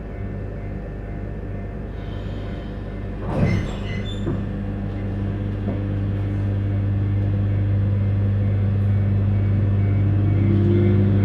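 JR Hokkaido 721-series electric train pulling away, its steady low running hum growing louder, with a clunk about three and a half seconds in and a faint rising motor whine near the end.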